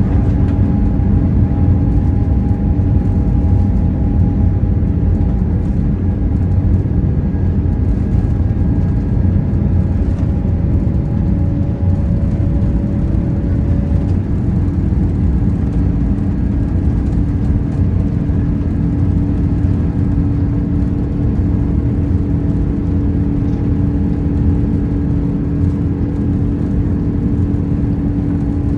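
Boeing 787-9 cabin noise from the Rolls-Royce Trent 1000 jet engines and airframe: a loud steady rumble with a steady hum.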